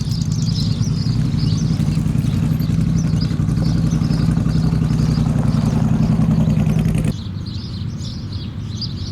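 Motorcycle engine running steadily at idle, stopping abruptly about seven seconds in. Birds chirp throughout.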